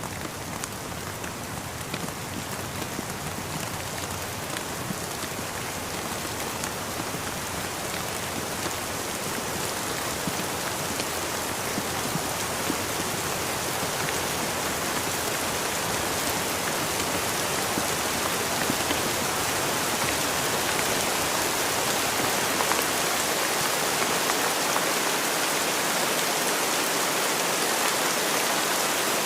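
Steady rain falling, with scattered drops tapping through it; the rain slowly grows louder.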